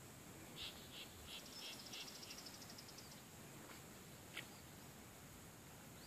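Songbirds calling faintly: a series of five short, high notes overlapped by a fast, even trill, then a single sharp note a little later, over a faint steady high hiss.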